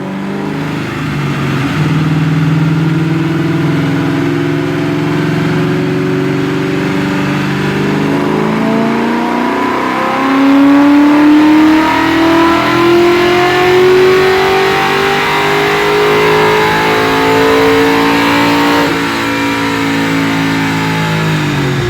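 1999 Ford Mustang GT's 4.6-litre two-valve V8 pulling at wide-open throttle on a chassis dyno. The engine note holds fairly steady, then after a break about nine seconds in it climbs steadily in pitch for about ten seconds before backing off near the end. It is a power run that comes up short: the engine runs out of airflow through its factory plastic intake.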